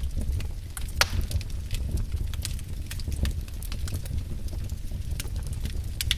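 Wood fire burning in a fireplace: a steady low rumble with irregular crackles and pops, the loudest pop about a second in.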